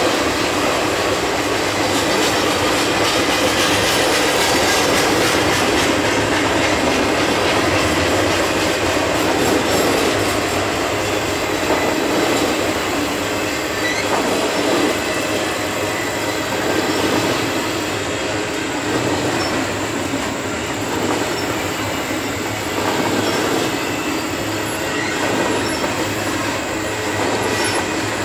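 Double-stack intermodal well cars loaded with shipping containers rolling steadily past at close range: the continuous rumble and rattle of steel wheels on the rails.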